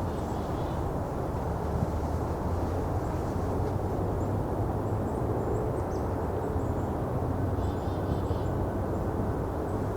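Steady low rumble of distant traffic, with black-capped chickadee calls over it: a few thin high notes mid-way and a short run of buzzy "dee" notes near the end.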